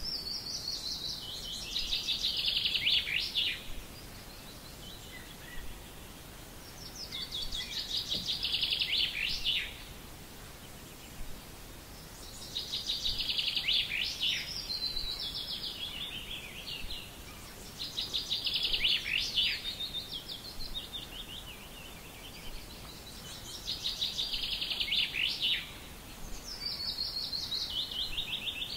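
A songbird repeats a fast trilled song phrase about every five to six seconds, six times in all. Each phrase lasts two to four seconds and falls in pitch, over a faint steady outdoor background.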